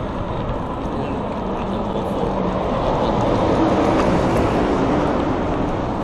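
Steady rushing wind and road noise from riding a bicycle, swelling a little midway.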